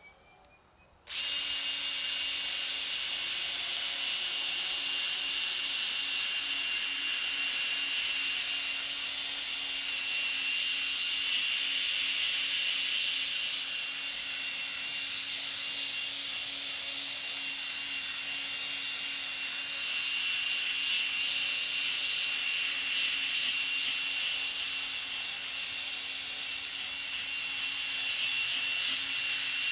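Power drill fitted with the kit's coarse brown sanding disc starting up about a second in and running steadily with a hum, the disc hissing as it sands the hazy plastic of a headlight lens.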